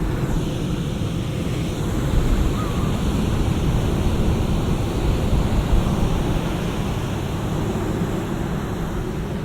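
Big shore-break surf breaking and washing up the beach, a steady, dense rumble of water, with some wind on the binaural microphone.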